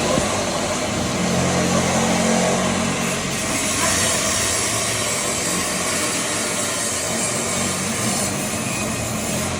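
Steady machinery noise: a low engine-like hum with a hiss over it.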